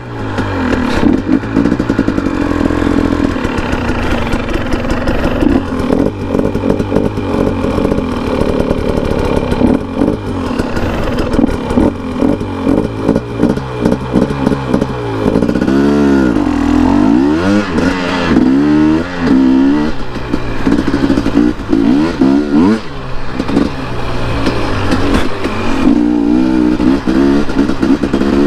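Dirt bike engine running under way on a trail, its pitch rising and falling repeatedly as the throttle is opened and closed through the gears.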